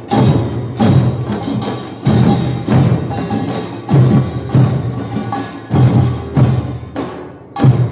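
Korean nongak (pungmul) percussion band playing a driving rhythm: the clang of small gongs rides over strong drum beats that come about every half-second.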